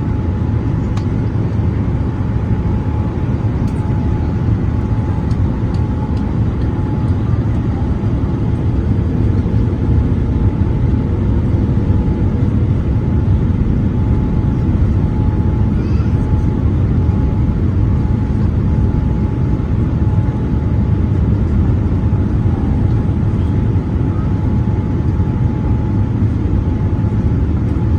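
Steady cabin noise inside a Boeing 787-8 airliner in flight: a low, even rumble of engines and airflow with a faint steady whine.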